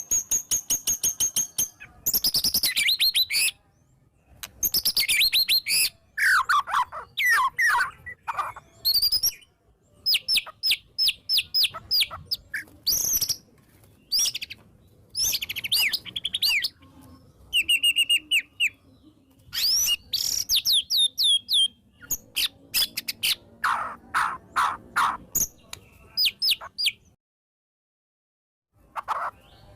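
White-rumped shama (murai batu) singing an agitated, open full song: loud bursts of rapid trills, fast chattering notes and clear whistles, with short pauses between phrases. The song drops out completely for about a second and a half near the end.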